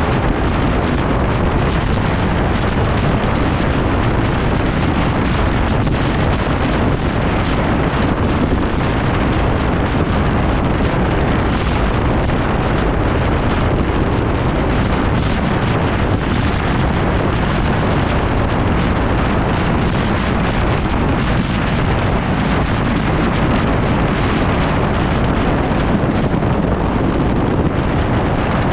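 Steady wind rushing over the microphone on a moving motorcycle, with the bike's engine and tyre noise underneath.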